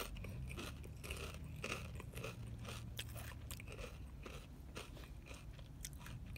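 A person chewing crunchy potato chips with the mouth close to the microphone: a run of irregular crisp crunches, several each second.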